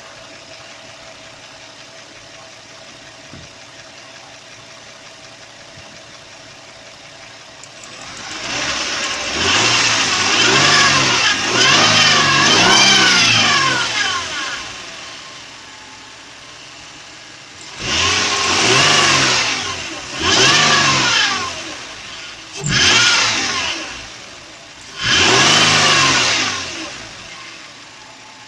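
Infiniti VQ35 3.5-litre V6 idling, then revved and held high for several seconds, then blipped four more times, the pitch rising and falling with each rev. The engine is being revved to show a whistle that appears at high revs.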